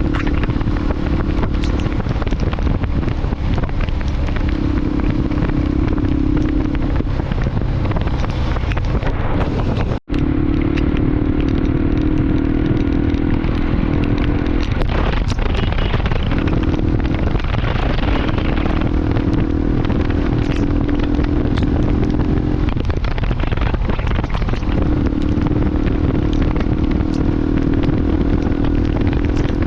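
Motorcycle engine running steadily under loud wind and road noise, its engine note coming and going every few seconds. The sound cuts out for a split second about ten seconds in.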